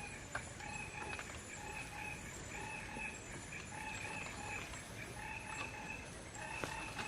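Forest ambience: an animal calling in short, evenly repeated notes, about two a second, over a steady high-pitched insect whine, with a few scattered sharp clicks or knocks.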